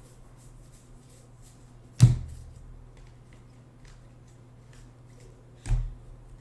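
Trading cards being handled on a table: faint quick flicks and clicks of cards, with two sharp knocks, about two seconds in and near the end.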